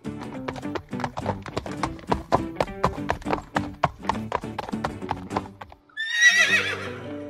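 Horse hooves clip-clopping in a quick, even rhythm for about six seconds, then a horse whinnies near the end.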